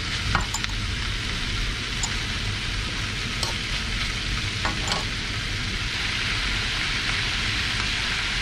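Diced pork lung and heart for bopis sizzling steadily in a large aluminium wok, with a few scattered taps and scrapes of a metal spoon stirring the pan.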